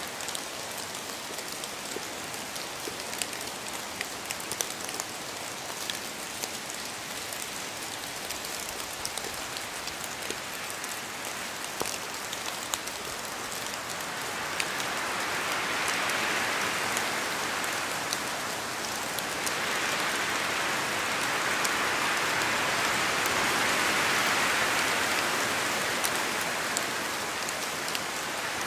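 Steady rain falling, with individual drops heard as scattered sharp ticks; the downpour swells louder twice in the second half.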